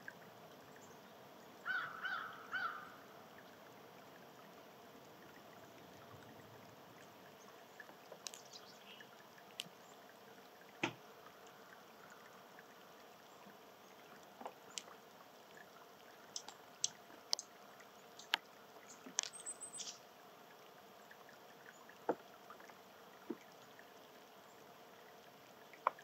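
A wild bird gives three quick nasal call notes, followed by scattered sharp clicks and taps, bunched most densely a little past the middle, over a faint steady hiss.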